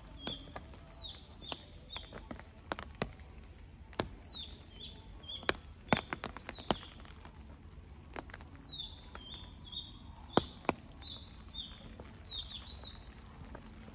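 A songbird calling over and over, each call a quick down-slurred whistle followed by a few short level chirps. Scattered sharp taps, the loudest about six and ten seconds in, over a low steady rumble.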